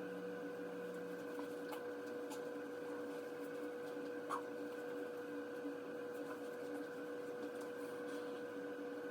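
Bathroom ventilator of a centralized air-conditioning system running with a continuous steady hum, a constant mid-pitched tone over a hiss. A few faint ticks, one a little louder about four seconds in.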